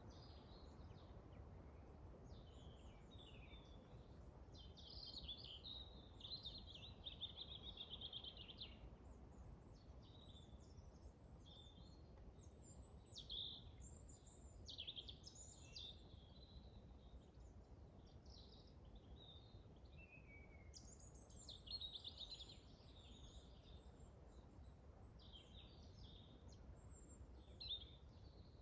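Several forest songbirds chirping and warbling faintly, in quick overlapping phrases, with a longer run of song about five to nine seconds in. Underneath is a steady low rumble of wind.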